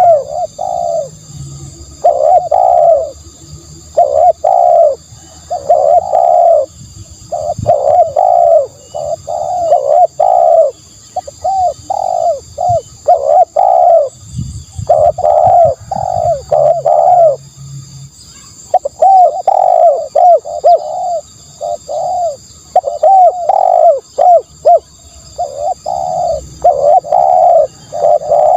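Spotted dove cooing over and over: low, rounded coo notes in quick groups of three to six, separated by short pauses.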